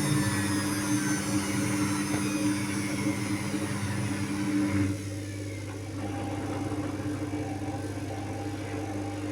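Indesit WIU 81 washing machine running mid-cycle: a steady motor hum with a high whine over it. About five seconds in the whine stops and the sound drops to a quieter, lower hum as the drum changes speed.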